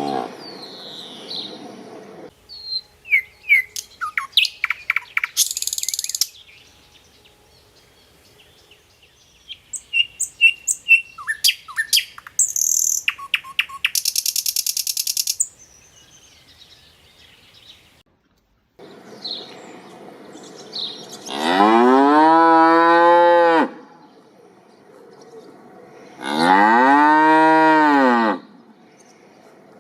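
Scattered bird-like chirps and short buzzy trills, then a cow mooing twice, each moo a long call of about two seconds that rises and falls in pitch.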